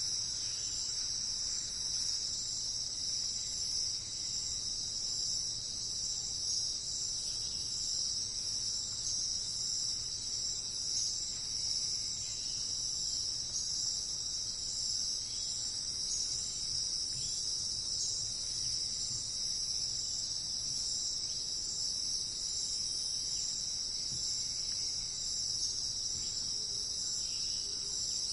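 Steady, high-pitched chorus of insects trilling without a break, with a few faint short calls lower down.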